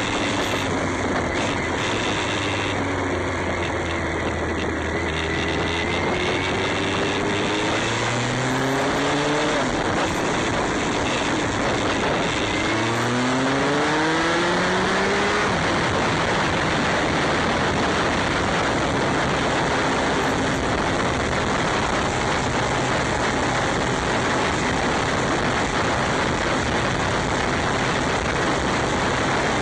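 Motorcycle engine pulling up through the revs twice, between about eight and sixteen seconds in, then running steadily, under a constant rush of wind noise on the microphone.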